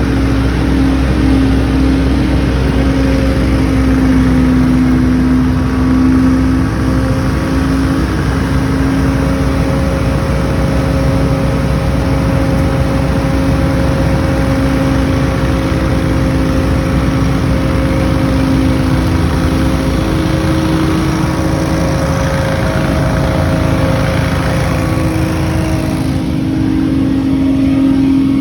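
Small engine of outdoor power equipment running steadily at a loud, even level, its pitch drifting slightly up and down.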